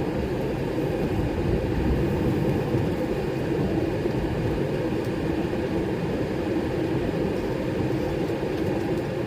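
DAF lorry driving, heard from inside the cab: a steady mix of engine and road noise with no sudden events.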